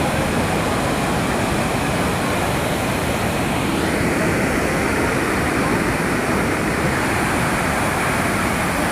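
Loud steady rushing noise with no clear pitch; its hiss changes slightly about four seconds in.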